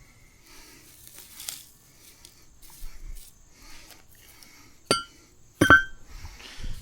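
Two sharp clinks of a hard object a little under a second apart, the second louder and ringing briefly, over faint handling noises.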